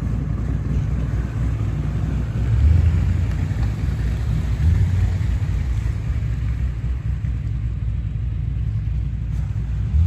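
Car engine rumbling at low revs, swelling a little a few times.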